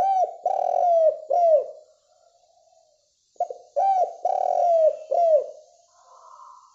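Spotted dove (derkuku) cooing: two calls, each of three low, drawn-out coos that drop in pitch at their ends, the second call starting about three and a half seconds in after a short lead-in note.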